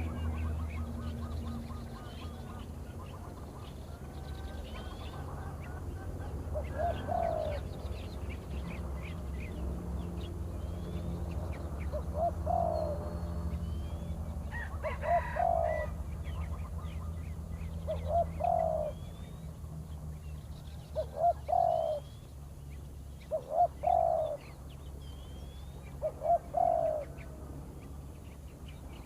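Spotted dove cooing, a short phrase repeated about seven times at intervals of two to three seconds, with small birds chirping higher up and a steady low hum beneath.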